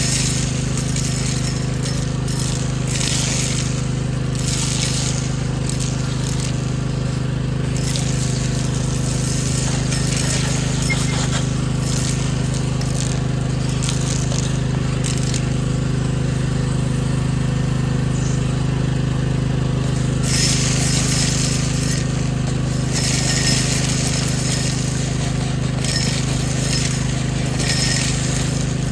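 Vacuum cleaner running steadily, with stretches of rattling hiss as grit and debris are sucked up the hose.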